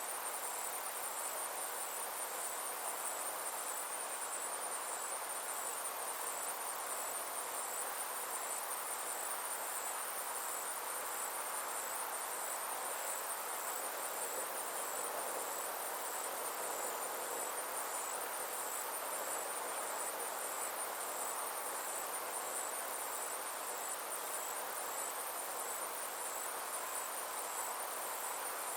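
Insects trilling steadily in a high, rapidly pulsing chorus, over a soft, even hiss.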